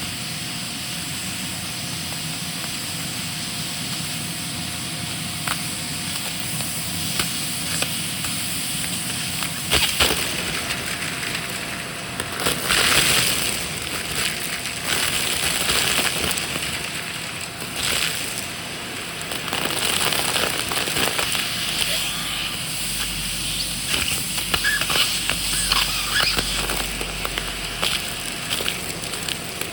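Vacuum cleaner running with a steady rushing suction noise, crackling and rattling as crunchy debris is sucked up. The noise swells louder several times, about ten seconds in, around thirteen and again from about twenty seconds on.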